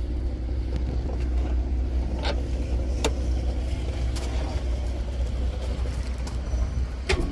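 Vehicle engine idling with a steady low hum, with a few light clicks about two, three and seven seconds in.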